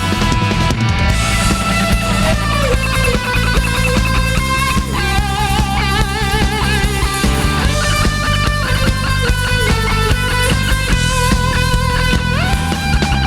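Rock band playing an instrumental break between sung verses: a lead electric guitar carries the melody with held, wavering notes over bass and drums.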